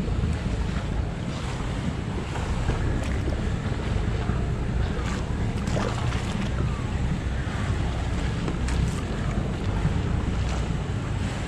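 Wind buffeting the microphone in a steady, gusting rumble over the wash of water, with a few short knocks or splashes scattered through.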